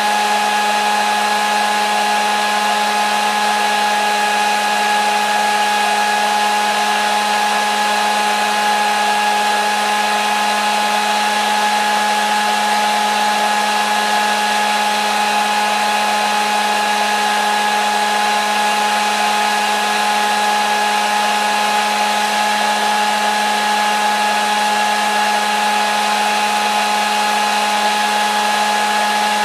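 Hair dryer running continuously without change: a steady rush of air over a motor whine that holds the same pitches throughout.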